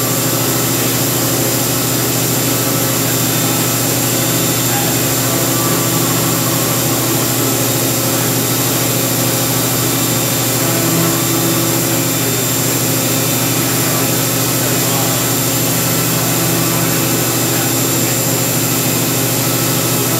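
Haas VF-2 CNC vertical mill running a milling job: a steady machine noise with several constant tones, including a high whine.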